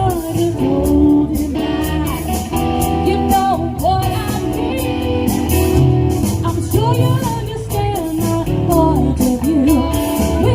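Live rock cover band playing an 1980s pop-rock song: a woman singing over electric guitar, bass and drums.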